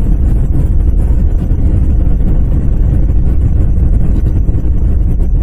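Steady low rumble of a car driving on a snow-covered highway, heard from inside the cabin: engine and tyre noise with no breaks.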